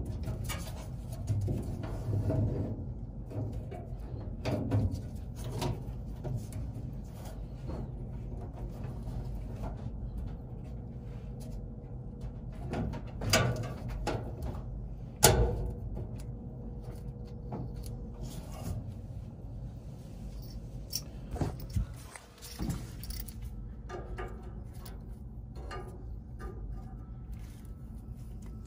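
Scattered clicks and knocks of hand tools and metal furnace parts being handled during pilot-tubing and fitting work, with one sharper knock about halfway through, over a steady low hum.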